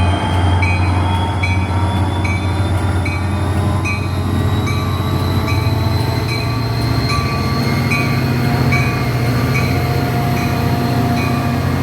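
A passenger train moving through the station with a heavy rumble, while a whine climbs slowly in pitch as it speeds up. A bell rings in even strokes a little faster than once a second throughout.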